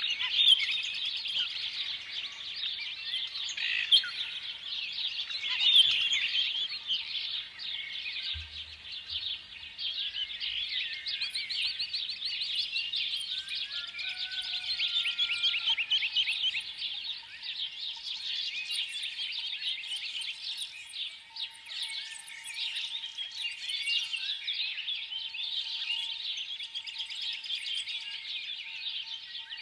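Many small birds chirping and twittering at once, a dense overlapping chatter of a flock.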